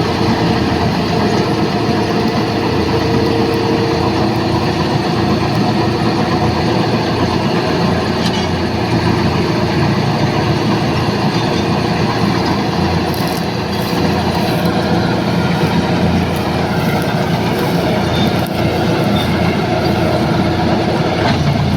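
John Deere 5405 tractor's diesel engine running steadily under load while it drives a machine making straw chaff (bhusa). The engine and the machinery make one continuous loud mechanical noise.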